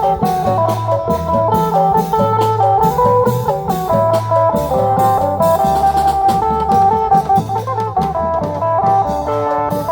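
Thai festive band music: a quick melody of short plucked-string notes over a steady, driving drum beat.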